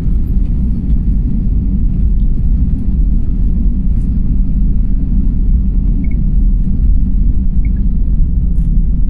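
Steady low rumble inside an airliner cabin with the jet engines running, even throughout, with a few faint clicks.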